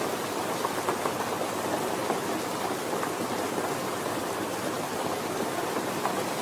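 Steady, gentle rain falling, a continuous hiss with scattered drop ticks.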